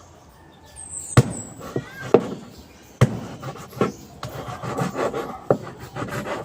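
A kitchen knife sawing through raw meat on a chopping board, with several sharp knocks of the blade or meat on the board and a rasping scrape from about four seconds in. The knife is blunt.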